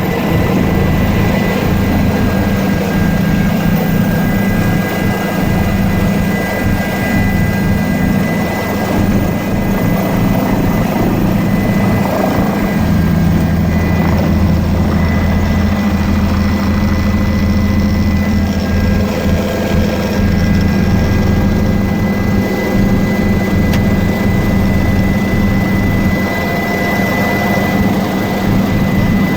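Helicopter running steadily: a constant low rotor and engine drone with a thin, high, steady whine over it.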